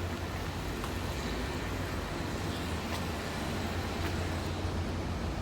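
Steady outdoor urban background noise with a low hum, like distant traffic, and a few faint ticks.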